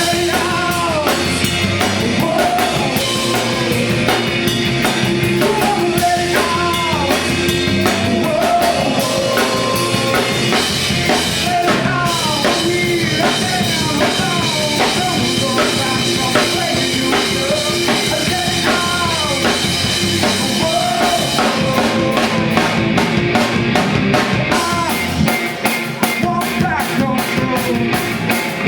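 Rock band playing, with a drum kit keeping a steady beat under a wavering melody line.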